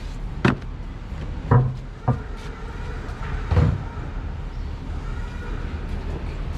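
A few sudden knocks and clunks, four in all and the second and fourth the heaviest, over a steady low hum.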